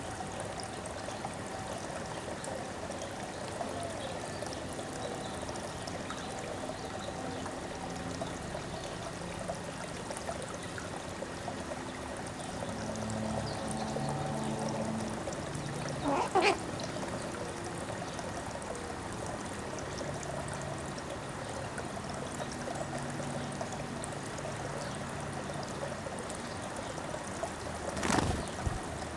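Steady trickling, running water. A brief sharp sound comes about halfway through, and another short sharp one near the end.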